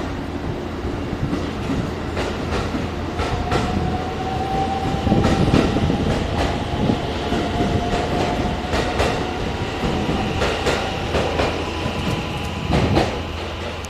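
Marine Liner electric multiple unit (JR Shikoku 5000 series coupled to JR West 223-5000 series) pulling out of the station, its wheels clacking over rail joints with a steady motor whine underneath.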